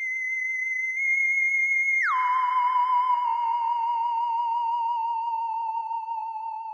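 Synthesized electronic tone: a high note held for about two seconds, then a quick drop of about an octave to a lower, fast-wavering note that slowly sinks in pitch.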